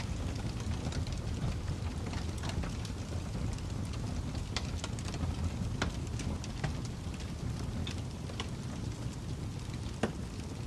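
Fire crackling: a low steady rumble with irregular small pops and snaps, and one sharper pop near the end.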